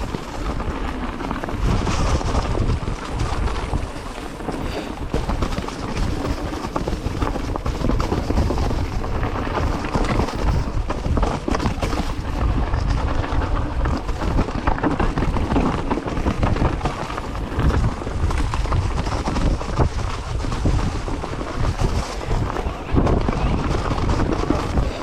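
Wind buffeting the microphone over the rumble and rattle of a mountain bike riding over rough trail, with many small knocks throughout.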